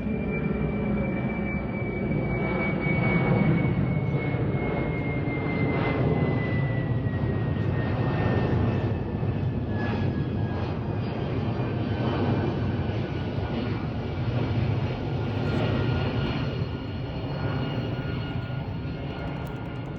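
Boeing jet airliner's engines running: a steady deep rumble with a high whine that slowly falls in pitch, fading a little near the end.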